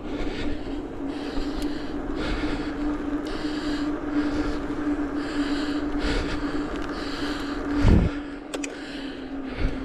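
A cyclist breathing hard and rhythmically while pedalling, about one breath a second, over a steady low hum, with a single thump near the end.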